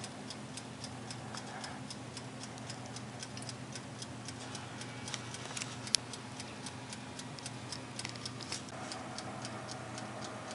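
Toaster oven's mechanical timer ticking steadily, about four ticks a second, as it runs down during baking, over a steady low hum, with one sharper click about six seconds in.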